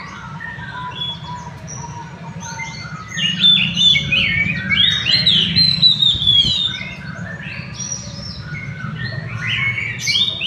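Many caged songbirds chirping and trilling at once, with overlapping calls that grow busiest about three seconds in. A steady low hum runs underneath.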